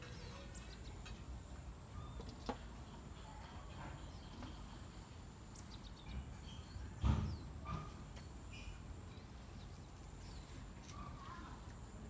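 Faint outdoor ambience: small birds chirping now and then over a steady low rumble, with one short knock about seven seconds in.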